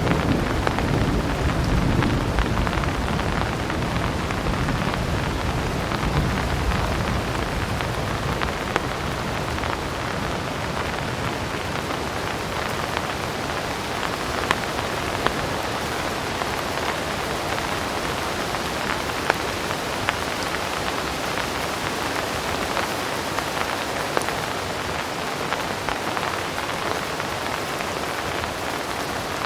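Heavy rain falling steadily, a dense even hiss with scattered sharper drop ticks. A low rumble of distant thunder dies away over the first few seconds.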